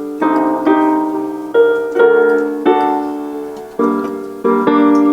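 Piano playing a Cantopop song's melody over chords as a song-guessing clue, a new note or chord struck roughly every half second to a second, each ringing and fading.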